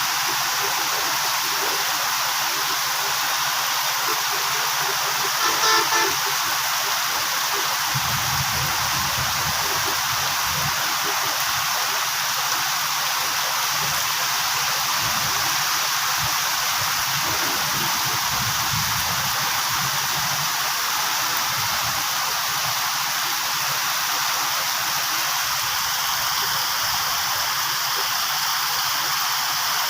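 Steady rushing background noise, with a short horn toot about six seconds in and a low engine rumble that comes and goes from about eight to twenty seconds.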